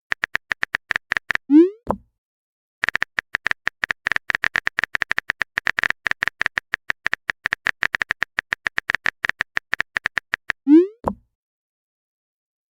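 Rapid typing-click sound effect of a chat message being typed, in two long runs of quick clicks. A short upward-sliding blip comes about one and a half seconds in and again near the end.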